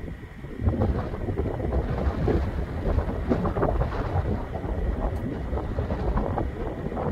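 Wind gusting across the microphone outdoors, a low, uneven rumble that swells and drops throughout.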